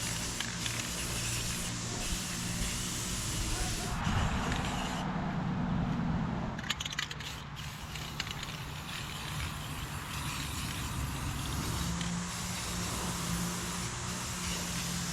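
Aerosol spray paint can spraying, a hiss with a louder, longer burst about four seconds in, followed by a few sharp clicks.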